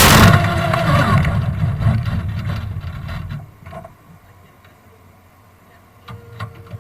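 Kart cross 500 engine cutting out suddenly from full noise and running down to a stop over about three seconds, falling in pitch, then only a few faint clicks. The sudden stop fits the engine breaking.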